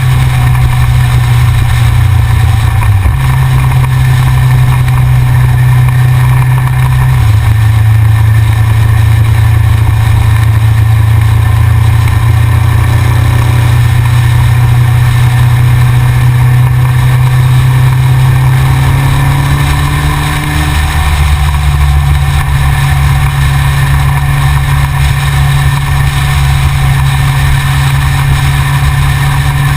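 Yamaha XJR motorcycle's inline-four engine running loud and steady while riding. Its pitch drops at about 3 and 7 seconds and climbs again near 20 seconds as the throttle and gears change.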